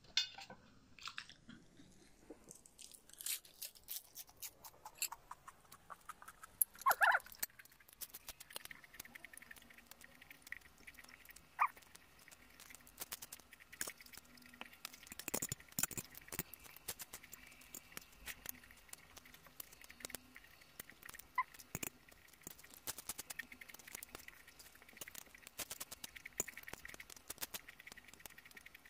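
Close-miked eating sounds: chewing and crunching of crisp lettuce and noodles, with many small clicks and smacks. A brief squeak about seven seconds in is the loudest moment.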